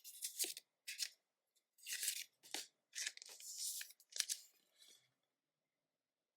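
Foil wrapper of a Pokémon card booster pack being torn open in a series of short rips and crinkles, which stop about five seconds in.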